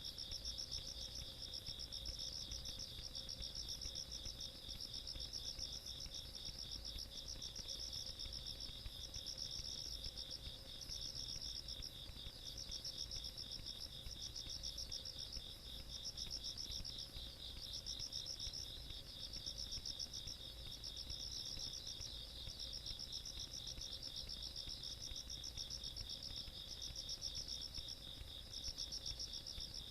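A chorus of night insects calling: one steady, rapid trill, and above it a higher chirping that comes in bouts of about a second, repeating over and over.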